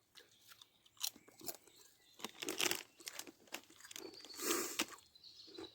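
Crisps being crunched and chewed close to the microphone: a run of irregular sharp crunches, loudest about four and a half seconds in.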